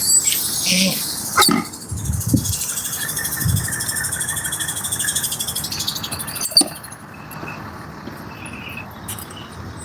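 Bicycle being handled: a few knocks and thumps, then a rapid even ticking for about four seconds that ends in a sharp click, the sound of the wheel turning after a tree branch jammed in the front wheel.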